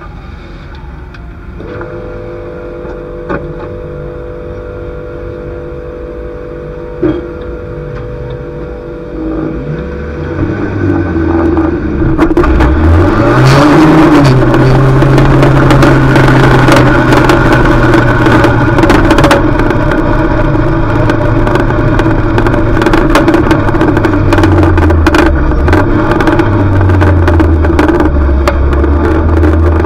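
Junior banger race car's engine, quieter for the first ten seconds or so, then revving up hard about twelve seconds in and held at high revs, with many clattering knocks over it and a couple of brief lifts near the end.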